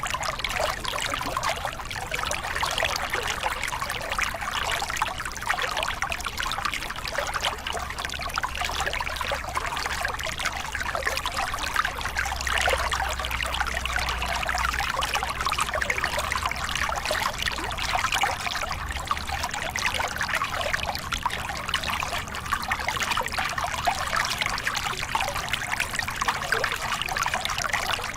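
Small river cascade: water steadily pouring and splashing over rocks, with a faint low rumble underneath.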